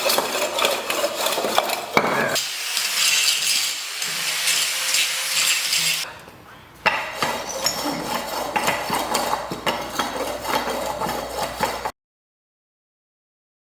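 Metal tools and engine parts clinking and clattering during hand assembly work on an engine, in several short takes with quick changes. The sound cuts off completely near the end.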